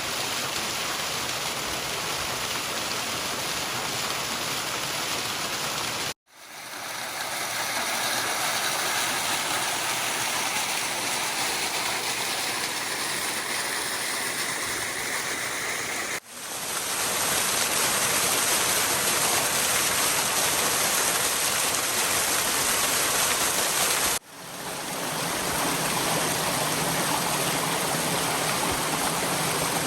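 Glacial meltwater rushing in a stream and small waterfall, a steady dense splashing. Three times the sound cuts out briefly and then fades back in.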